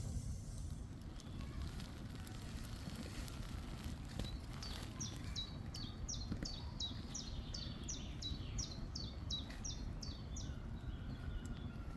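A songbird singing a long series of quick down-slurred whistled notes, about two or three a second, starting about four seconds in and stopping near the end, over a steady low rumble of background noise.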